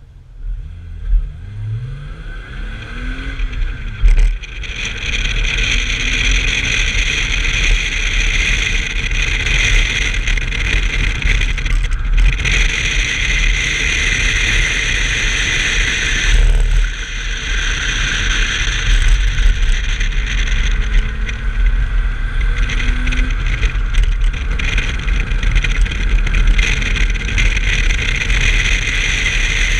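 1990 BMW 325i's 2.5-litre straight-six running hard at racing speed over a steady loud rushing noise. Its pitch rises in the first few seconds and again about two-thirds of the way through, with a brief drop in the sound a little past halfway.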